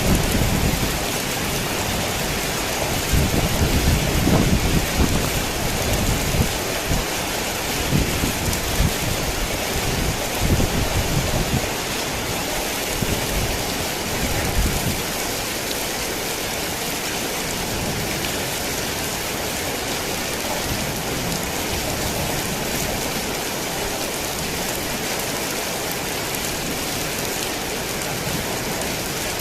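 Heavy rain falling steadily, with low rolling rumbles of thunder through the first half that die away about halfway through.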